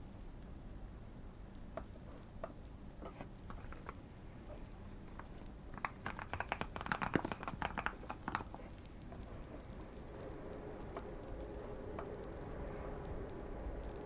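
A quick run of keystrokes on a modded Keychron Q1 mechanical keyboard about six seconds in, over scattered light fireplace crackling. A faint steady hum comes in near the end.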